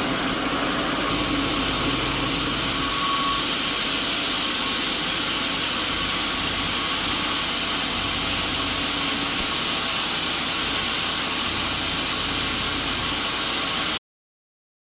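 Woodworking machinery running steadily, a loud even mechanical noise that stops abruptly near the end.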